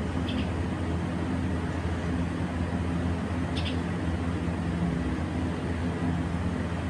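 A steady low hum with a hiss over it, unchanging throughout, and two brief faint high chirps from a pet bird, about three seconds apart.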